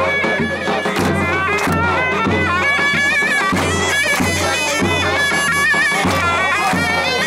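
Turkish folk music from a davul and zurna. The shrill zurna plays a fast, ornamented melody over the davul's steady beat.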